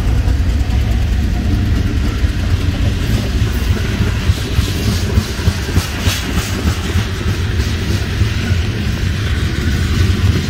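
Florida East Coast Railway freight train passing close by: a steady, loud low diesel rumble from its locomotives, with the freight cars' wheels clicking and clacking over the rail joints in the middle stretch.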